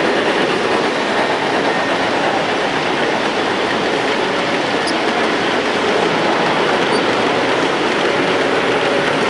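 Model train running on a layout's track, a steady even noise without pauses.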